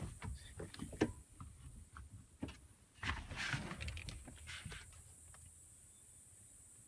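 Light handling noises in a vehicle cab: a few scattered clicks and knocks, then about two seconds of rustling, after which it goes quiet.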